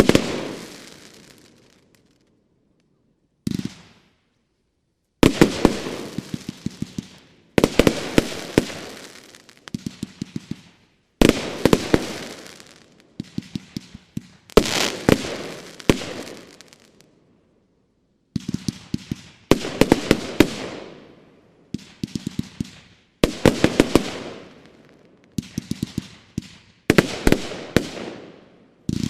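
Geisha Burning Heart compound firework cake (25 and 30 mm shots, 106 shots) firing. It goes off in volleys every few seconds, each a quick cluster of sharp bangs that fades away over a second or two.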